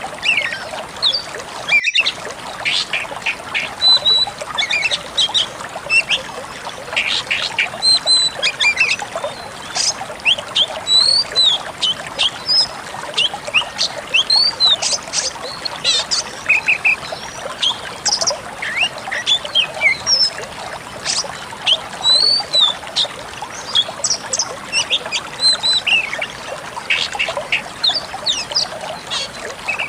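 Pied bushchat (decu kembang) singing a rapid run of short high chirps and whistles, over a steady trickling-water background. The sound breaks off briefly about two seconds in.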